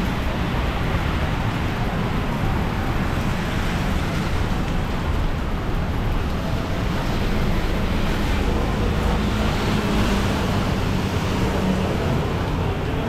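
City street ambience: steady traffic noise from passing vehicles.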